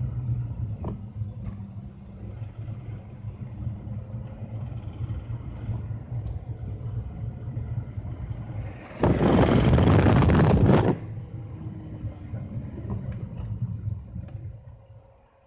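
BMW M54B30 3.0-litre straight-six engine running steadily. A loud burst of noise about two seconds long comes about nine seconds in, and the sound fades away near the end.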